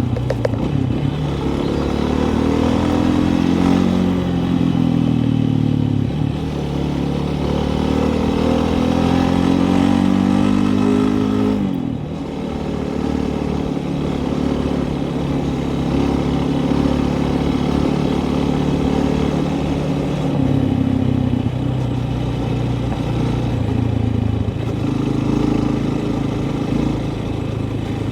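A motor vehicle's engine running and revving, its pitch climbing and falling in waves, then dropping suddenly about twelve seconds in before it runs on more steadily.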